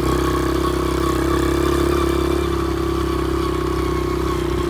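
Honda XR70 pit bike's small four-stroke single-cylinder engine running at a steady, even speed.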